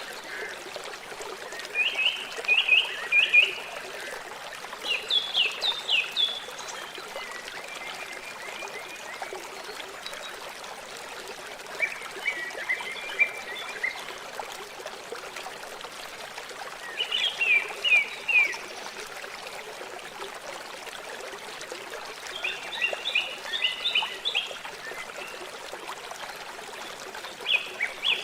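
River water flowing with a steady rushing trickle. A bird sings over it every few seconds, each phrase a quick run of short high notes, about six times.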